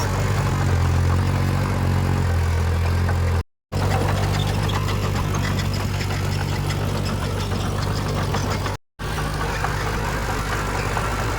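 Heavy diesel engine of an earthmoving machine running steadily at an even low pitch. The sound cuts out completely for a moment twice, about a third of the way in and near the end.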